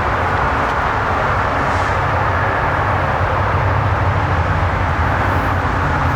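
A vehicle engine running steadily, a constant low hum with a rushing noise over it and no change in pitch.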